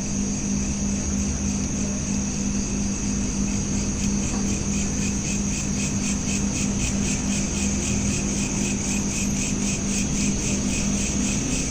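Crickets chirping steadily in a continuous high trill, the pulsing becoming more distinct a few seconds in. A steady low hum runs underneath and fades out near the end.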